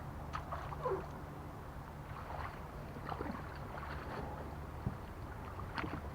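A small two-man pontoon boat being hauled out of the water by hand: scattered scrapes and knocks of the hull being moved, with one sharp knock about five seconds in, over a steady low hum.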